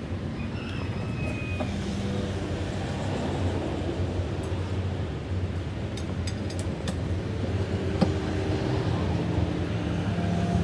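An engine running steadily, with a few short clicks over its hum.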